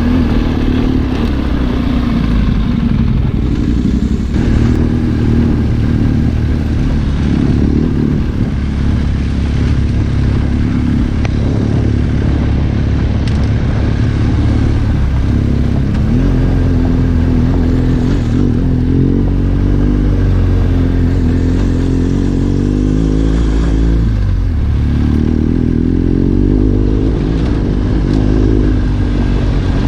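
Trail motorcycle engine running under way, its note rising and falling with the throttle. The pitch drops and climbs back twice, about halfway through and again about four-fifths through.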